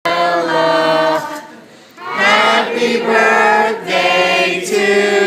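A choir of voices singing in long held notes, with a short break about a second and a half in.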